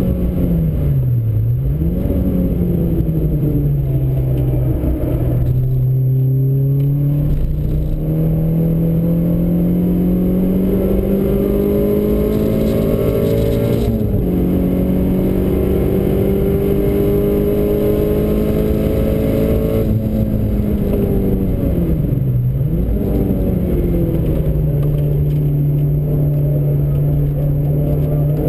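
Renault Clio engine heard from inside the cabin while driven hard on a circuit. Its pitch climbs steadily and drops sharply at a gear change. Twice it dips low and winds back up as the car slows for a corner and accelerates out, once near the start and once about three-quarters of the way through.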